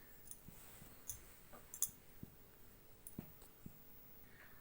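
Several faint clicks and soft taps, spaced irregularly, with no speech.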